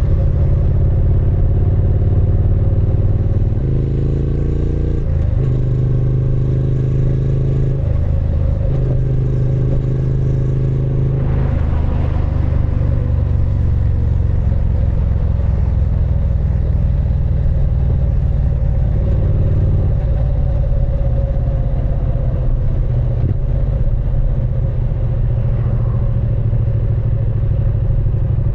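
Triumph Speed Twin 900's 900 cc parallel-twin engine and exhaust under way, the pitch climbing and then dropping at gear changes in the first ten seconds before settling to a steadier low running note.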